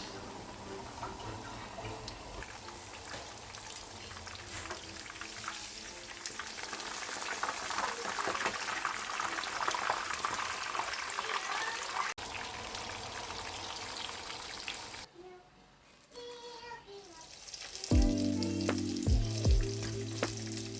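Food frying in hot oil, a steady crackling sizzle that swells in the middle and fades away about fifteen seconds in. Background music with a steady bass line comes in near the end.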